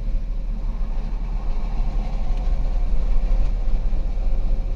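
2008 Volkswagen Passat's 3.6-litre VR6 engine idling with a steady low rumble, while it is suspected to be running on low-side fuel pressure only, with no high-pressure rail pressure.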